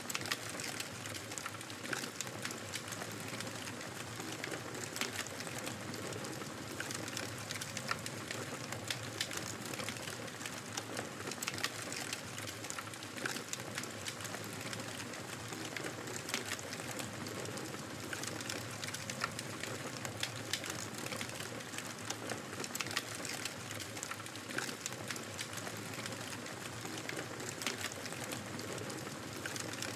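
Wood fire crackling steadily: a soft hiss with many small, irregular pops and snaps throughout.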